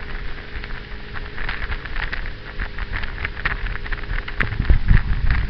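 Wind buffeting the microphone over a steady rushing, crackly noise, with a faint steady hum underneath. The low wind gusts get heavier about four seconds in, as the hum fades.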